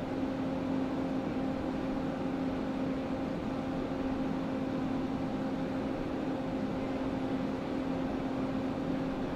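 JR West 287 series electric train standing at a platform, its onboard equipment giving a steady hum with a constant low tone over an even hiss.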